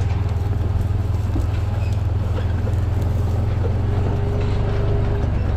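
A vehicle's engine running steadily while driving, a deep constant hum.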